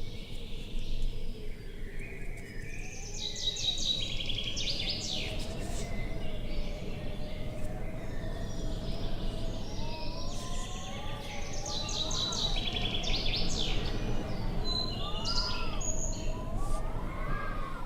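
Outdoor ambience of songbirds singing trilled phrases, two clear bursts of song a few seconds apart, over a steady wind-like rush. In the second half a fainter, lower tone rises and falls in slow arches.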